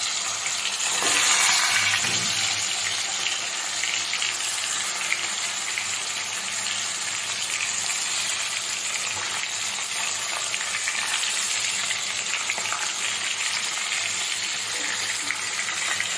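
Chicken pieces sizzling in hot mustard oil in a karahi as they are added one by one: a steady frying hiss with fine crackling spatter.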